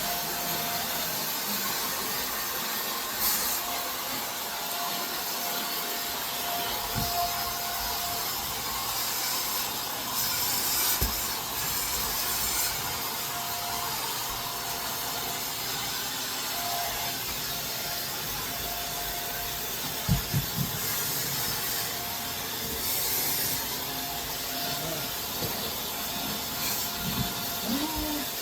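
Shark Stratos vacuum cleaner running steadily, with a steady whine over its rushing noise and a few knocks as it is worked over the floor.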